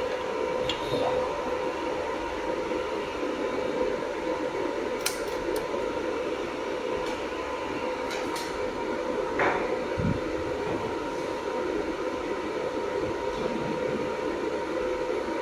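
Jewelry laser welding machine running with a steady fan-like hum and a tone, with a few short sharp clicks in the middle.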